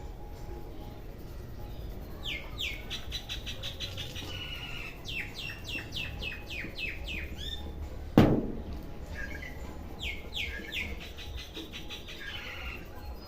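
Birds chirping in rapid runs of short, falling calls. One sharp, loud smack or crack about eight seconds in stands out above them.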